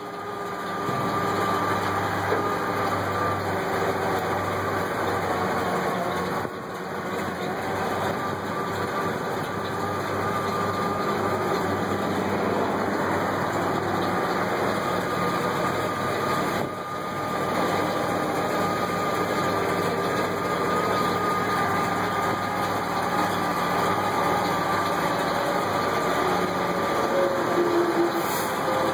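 The dump truck's 351 Windsor V8 runs steadily, driving the PTO hydraulic pump that raises the dump bed. The sound dips briefly twice, about six and seventeen seconds in.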